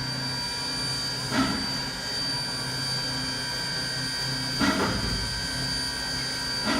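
Train running on track: a steady hum with a thin high whine, and a short clack every two to three seconds.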